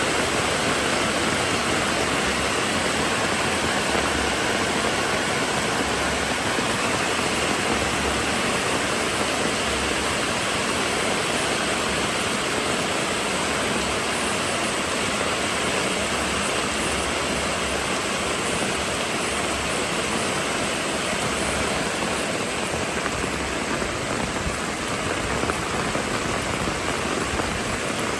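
Steady rainfall, an even hiss with no distinct drops or footsteps standing out.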